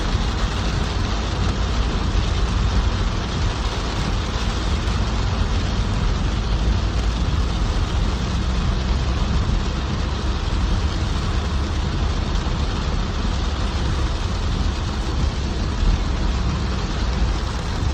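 Heavy downpour: a steady, even rush of rain noise with a deep rumble underneath.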